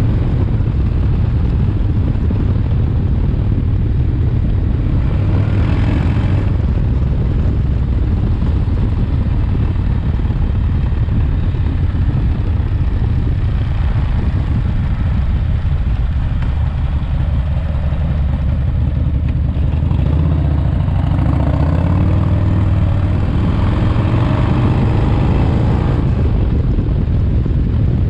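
Freshly rebuilt S&S 107ci V-twin in a 1985 Harley-Davidson FXRT running under way during its break-in miles. Its note rises about two-thirds of the way through as the bike picks up speed.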